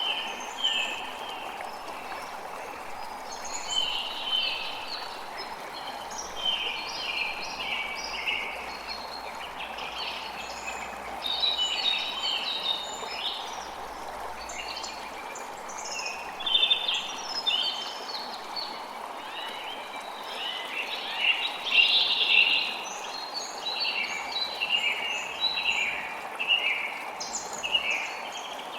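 Many forest birds chirping and singing in short, overlapping calls over the steady flow of a creek.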